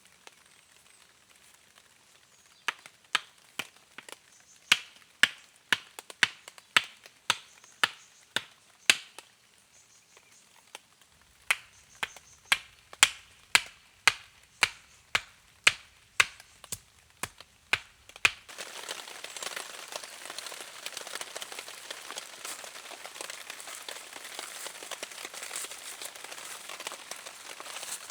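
A run of sharp, hard knocks, about two a second with a short pause midway, then an abrupt change to a steady, dense crackling hiss.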